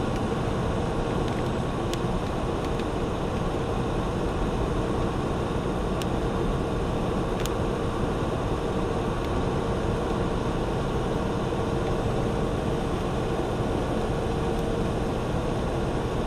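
Steady drone inside a truck cab: the engine running with a constant noisy rush and a faint steady hum, and a few faint ticks.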